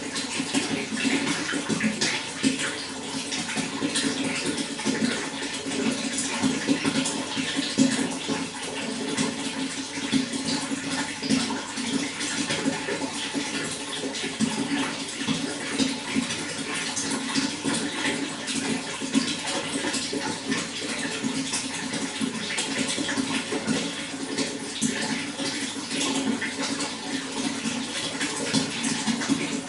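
Running water flowing and splashing steadily, a continuous rush with many small splashes.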